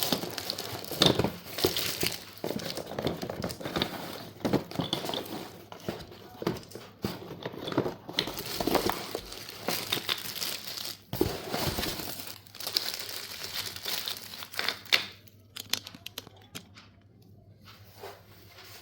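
Packaging crinkling and rustling as it is handled and pulled open, with sharp crackles and a little tearing. It goes much quieter about three-quarters of the way through, leaving only a few faint crackles.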